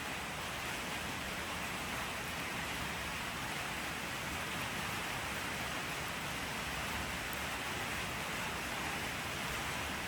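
Steady rain falling: an even hiss of drops with no distinct hits or pauses.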